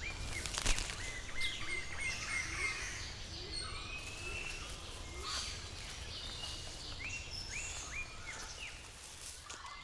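Rainforest ambience: many birds calling in short whistled notes over a steady background hiss, with several notes in quick succession near the end.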